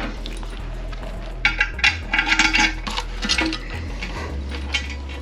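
Small metal hardware clinking and rattling as it is handled: new toilet tank bolts, nuts and metal washers being fitted, a quick run of clinks a second and a half in, over a low steady hum.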